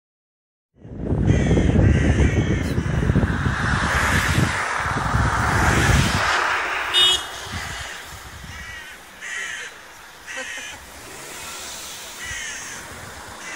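A bird giving short, harsh calls about six times, spaced a second or two apart, over a loud low rumble like wind on the microphone that fades out about halfway through.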